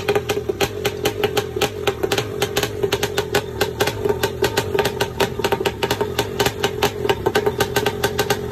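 Kawasaki 650cc two-stroke engine idling on a test run: a steady drone with sharp, evenly spaced exhaust pulses, about six or seven a second.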